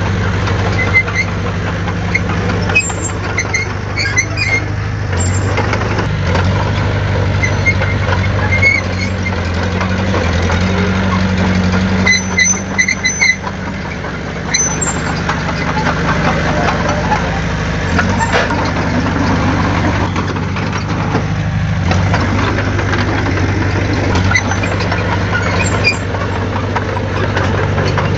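Heavy diesel engine of earthmoving machinery running steadily, with brief high-pitched squeaks now and then.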